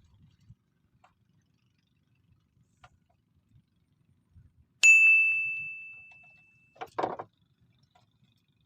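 A small metal bell struck once and left ringing with one clear tone that fades over about two seconds. It fits a bite bell clipped to a fishing rod tip. A short scuffle or knock follows soon after.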